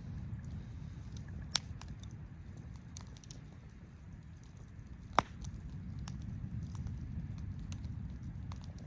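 Wood campfire crackling, with scattered sharp pops, the loudest about five seconds in, over a steady low rumble.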